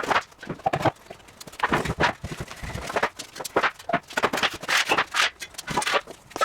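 A run of irregular knocks and clunks, several a second.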